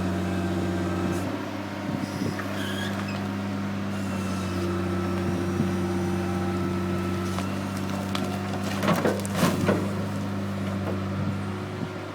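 Heavy diesel engine running at a steady speed, with a short cluster of clanks about nine seconds in.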